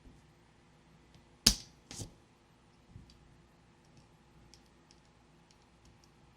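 Toy packaging being handled: two sharp clicks about a second and a half in, half a second apart, the first louder, followed by faint light ticks.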